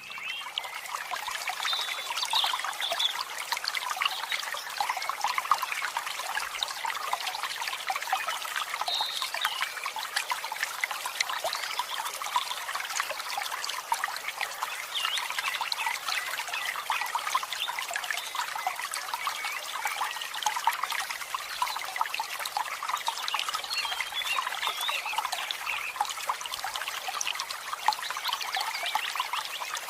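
Many birds in an aviary chirping and chattering at once, a dense, unbroken chorus of short high calls.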